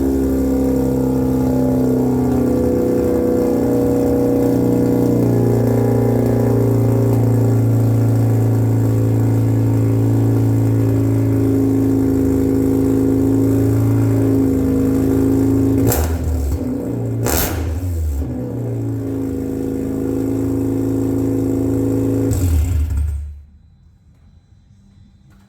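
Mazda RX8's naturally aspirated Renesis two-rotor rotary engine, running through headers and a straight-piped muffler delete, idling loud and steady, with two short sharp bursts about a second and a half apart past the middle; the engine then shuts off near the end. This exhaust setup is too loud for the owner, who calls it crazy loud.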